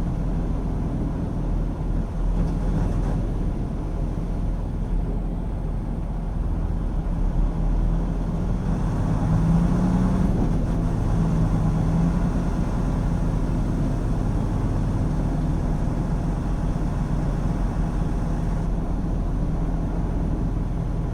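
Semi-truck's diesel engine and road noise heard inside the cab, a steady low drone that swells slightly for a few seconds midway.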